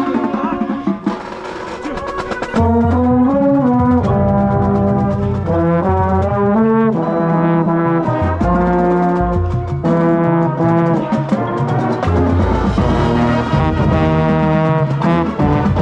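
Marching band brass section playing a show passage: a quieter opening, then a loud full-band brass entrance about two and a half seconds in, with sustained chords over a strong low end.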